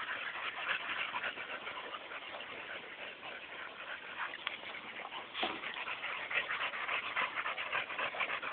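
Pit bull dogs close by, making a quick, continuous patter of short sounds, with a sharper sound about five and a half seconds in.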